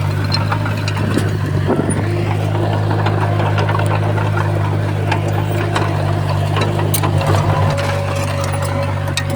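Komatsu D51PX bulldozer's diesel engine running steadily, with scattered clicks and clanks over it.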